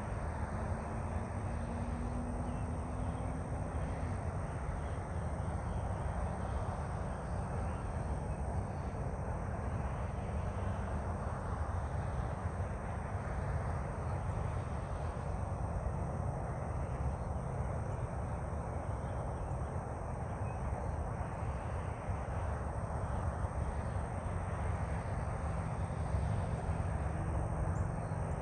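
Steady outdoor background noise: a low rumble with hiss, and a faint rising hum in the first few seconds.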